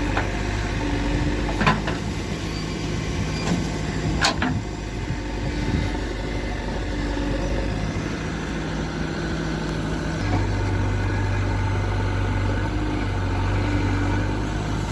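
JCB 3DX backhoe loader's diesel engine running steadily, with two sharp knocks about two and four seconds in. The engine note turns deeper and steadier about ten seconds in.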